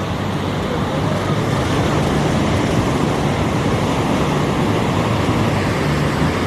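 Ocean surf breaking and washing ashore: a loud, steady rush with a rumbling low end.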